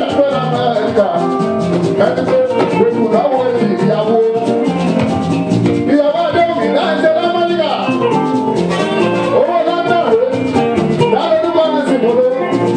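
Fuji music performed live: a vocalist singing a sliding, melismatic line over dense, driving percussion with shakers.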